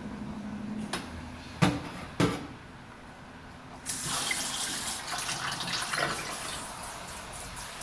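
Dishes knocking against each other in a sink three times, then a kitchen tap turned on and water running steadily into the sink from about four seconds in.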